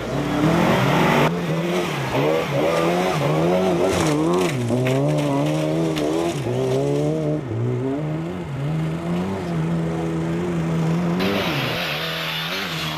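Rally car engine driven hard, its pitch repeatedly rising and falling as it revs up and lifts off. A rush of hissing noise joins it for the last couple of seconds.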